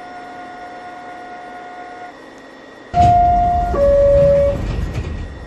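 NYC subway car door-closing chime, two descending notes, sounding about three seconds in over a loud rumble of the train as its doors shut.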